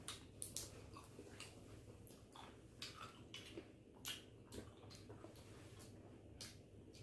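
Faint eating sounds: scattered soft clicks and smacks of chewing fresh fruit and nuts, at irregular intervals over a low steady hum.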